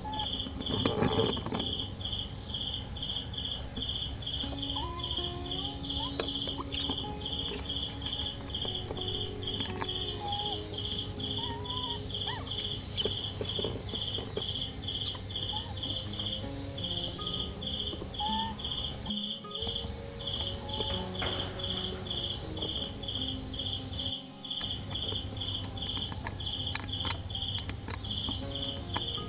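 Insects chirping steadily: a regular high chirp about twice a second over a continuous high buzz, with a few faint short calls and clicks.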